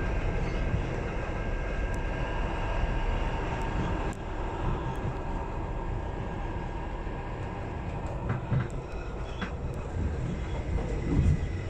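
Electric commuter train running along the line, heard from inside the carriage: a steady rumble of wheels on rail with a few faint, steady whining tones above it.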